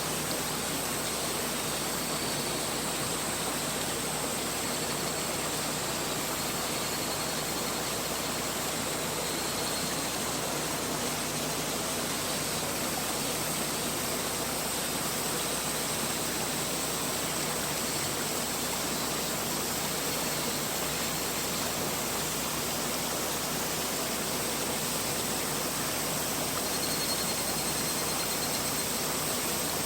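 Mountain river flowing over rocks: a steady rushing of water that holds even throughout.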